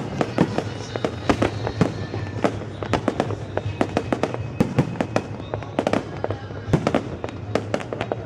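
Fireworks display: a dense, irregular run of shell bursts and crackling reports, several sharp bangs a second.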